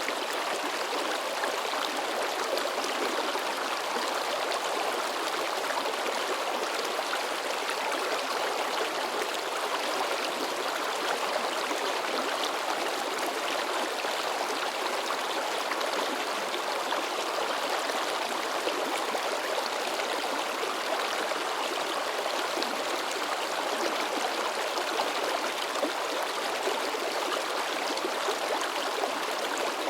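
A shallow river babbling and splashing over rocks, a steady rushing and gurgling of water without pause.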